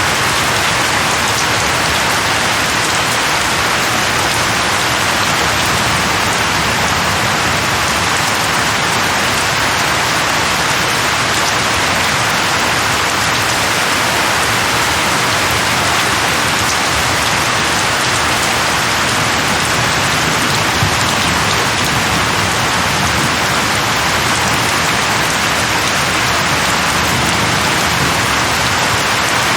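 Steady heavy rain falling on a surface, an even unbroken hiss with no let-up or thunder.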